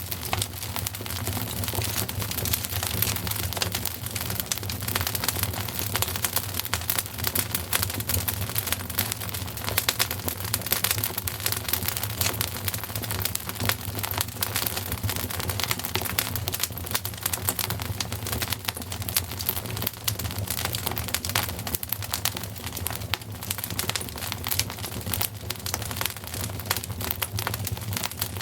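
Wood fire crackling in a fireplace: a dense, continuous run of small pops and snaps, with a low steady rumble underneath.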